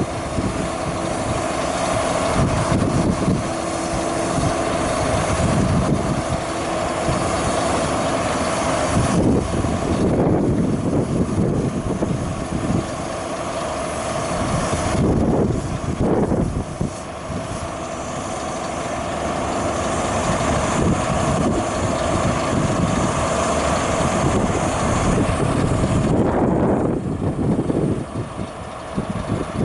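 Diesel engine of a Scania R 480 truck running steadily, with a steady high whine over its rumble.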